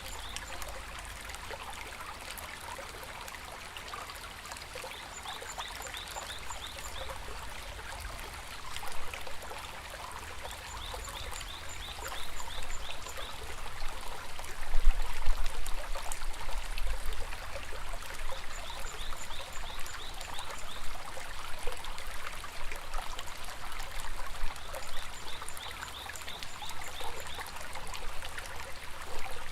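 Shallow river water flowing steadily over stones. A high call of quick short notes, likely a bird, repeats about every six seconds, and a low rumble rises under the water sound in the second half.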